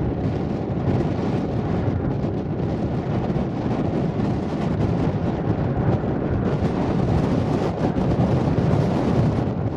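Boeing 727-200's Pratt & Whitney JT8D turbofan engines running loud and steady as a low rumble, with strong wind buffeting the microphone.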